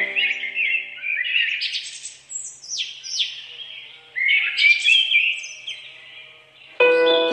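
A bird singing in quick chirps and trills, some sweeping down in pitch. Background music fades out at the start and comes back in near the end.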